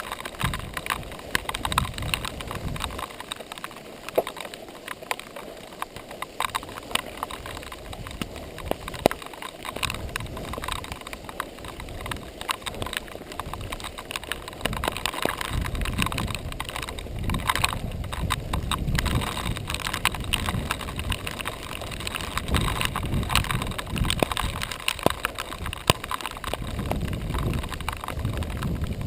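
Giant XTC 3 mountain bike riding a rough dirt trail: a constant clatter of clicks and rattles from the bike and tyres over rocks and ruts. Wind rumbles on the microphone, stronger in the second half.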